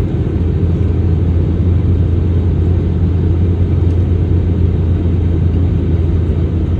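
Airliner cabin noise: the steady, low drone of jet engines and airflow heard from a passenger seat.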